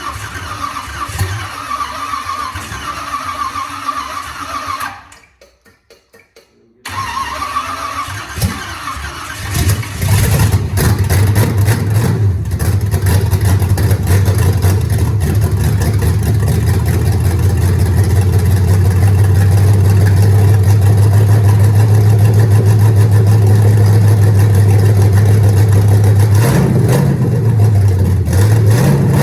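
Freshly rebuilt 305 small-block Chevy V8 being started for the first time: after some cranking and a short break, it catches about ten seconds in and runs steadily, with a couple of brief revs near the end.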